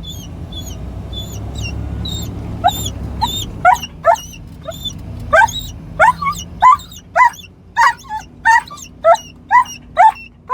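Dog whining in short, quickly rising yelps, about two a second, starting about two and a half seconds in. Under the first few seconds is a low rumble of the car moving off.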